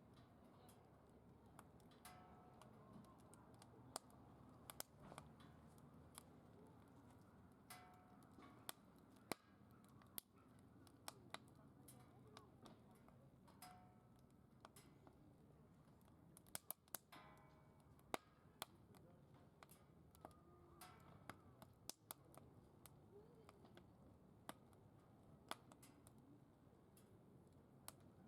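Faint wood fire burning in a secondary-combustion fire pit, with sharp, irregular crackles and snaps of the burning wood.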